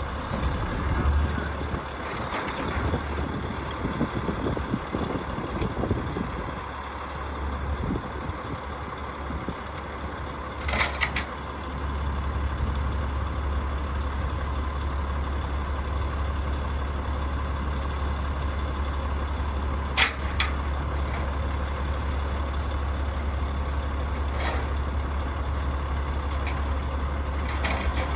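Rooftop HVAC unit running: a steady low hum with fan and air noise, broken by a few sharp knocks or clicks spread through the stretch.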